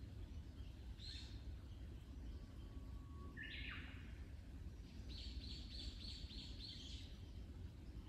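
Wild birds calling over a steady low rumble: a short high chirp about a second in, a whistled call that jumps up in pitch around three and a half seconds, and a quick run of high chirps, about four a second, from about five to seven seconds.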